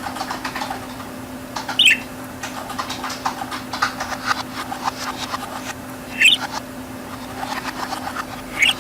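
Budgerigar chattering and warbling: a steady run of quick clicks and chirps, with a sharper pitched call about two seconds in, another a little past six seconds and one near the end, over a steady low hum.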